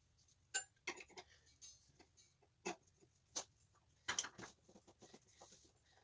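Small metal parts and tools being handled on a workbench: irregular light clicks and knocks, with a cluster of louder knocks about four seconds in.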